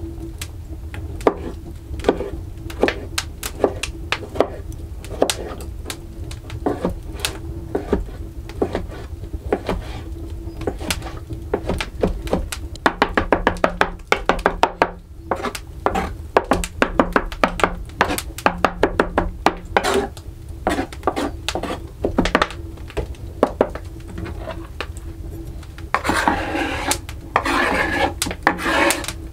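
Kitchen work on a wooden surface: repeated sharp knocks and taps, coming quickly for several seconds in the middle like chopping strokes, then a rough scraping near the end.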